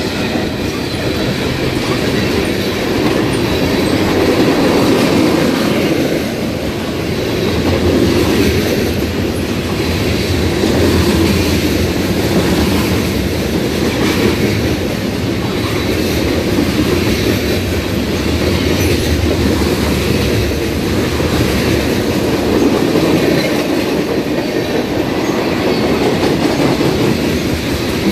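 A train rolling past at close range: a steady, loud rumble of cars on the rails that swells and eases a little along the way.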